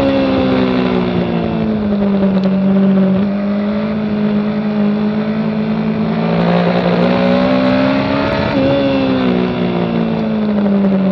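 Kawasaki ZZR1400 (ZX-14R) inline-four engine running at speed under a rush of wind noise. Its pitch falls as the bike slows at first, holds steady, rises under acceleration for a couple of seconds, then eases off again.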